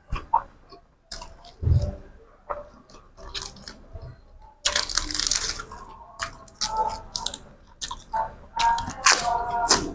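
Close-up chewing and crunching of food, a mouthful of spicy pork salad with crisp raw vegetables: irregular crunching bites and wet mouth sounds, the loudest crunches about five seconds in and again near the end.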